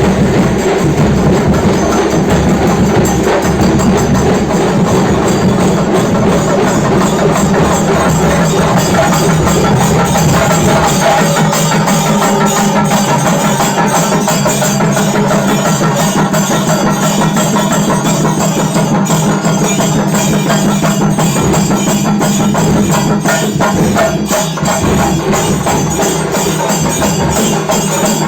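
Dollu drums played in a fast, dense run of strokes that does not break.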